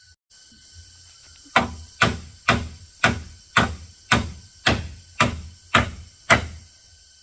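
Hammer blows on wood: ten steady, evenly spaced strikes, about two a second, starting about one and a half seconds in, each with a short ringing tail.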